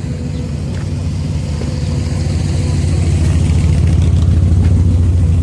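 A car or truck engine running at low revs close by, a deep steady sound that grows louder over the first three seconds or so and then holds.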